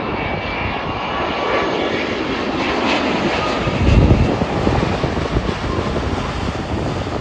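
Wide-body jet airliner on landing, a broad steady jet-engine roar with a louder low rumble about four seconds in.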